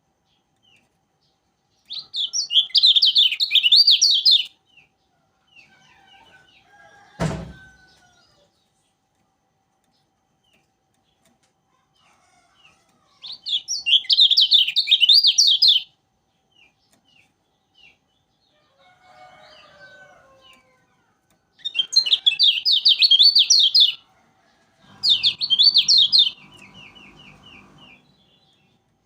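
Kecial kuning white-eye singing in four bursts of rapid, high twittering song, each about two seconds long. A single sharp knock sounds about seven seconds in.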